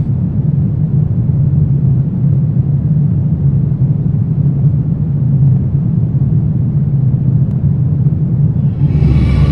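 Low, steady rumbling drone of a dark horror ambience track. Near the end a brighter, layered sound with a deeper boom underneath swells in over it.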